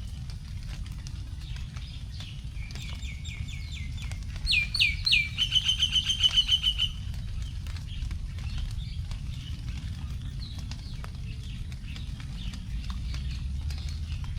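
Last raindrops dripping onto leaves in a forest after rain, heard as scattered irregular ticks over a steady low rumble. About two and a half seconds in, a bird sings one phrase: a run of short down-slurred whistles, three louder hooked notes, then a rapid trill that ends about seven seconds in.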